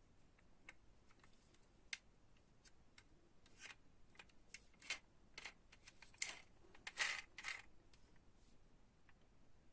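Faint clicks and clinks of toy cars and their packaging being handled, scattered at first and coming thicker through the middle seconds, with a brief scrape about seven seconds in.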